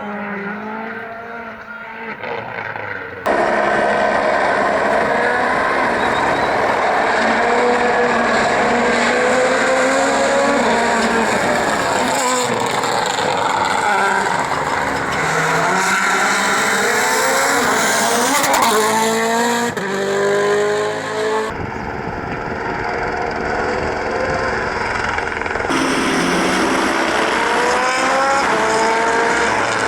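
Rally cars driven hard on a special stage, their turbocharged engines revving up and dropping in pitch again and again through gear changes as they pass, in several clips cut together.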